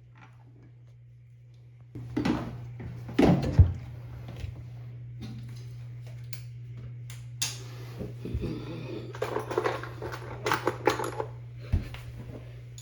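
Metal hand tools clinking and knocking as they are handled, in scattered bursts, over a steady low hum that starts about two seconds in.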